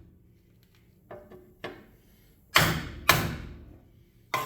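Hammer blows on a bent motorcycle wheel rim, straightening a dent in it: two light taps, then two heavy strikes about half a second apart, and one more sharp strike near the end, each ringing briefly.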